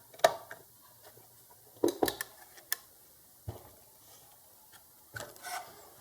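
Scattered sharp clicks and knocks from wiring connectors and the control board being handled and plugged in: one loud click just after the start, a cluster of clicks about two seconds in, and a few softer knocks later.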